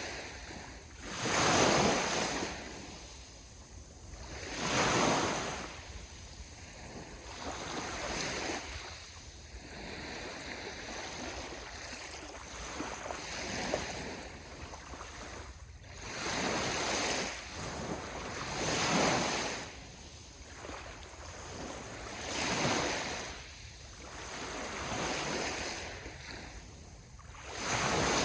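Sea waves breaking and washing up the shore, one rushing surge every three to four seconds, with a low steady rumble underneath.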